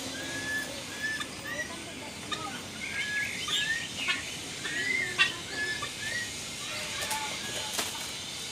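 Several birds in an aviary giving short, repeated chirps and whistled notes, overlapping one another. A few sharp clicks cut through, the loudest about five seconds in.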